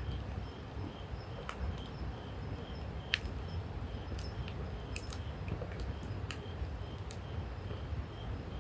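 Wood campfire burning: sharp crackles and pops at irregular moments over a low, steady rumbling noise.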